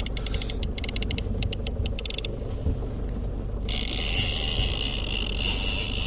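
Fishing reel ratcheting with a rapid run of clicks as line is worked against a hooked bluefin tuna. The clicking stops about two seconds in, and after a short lull a steady high hiss starts, over a constant low rumble.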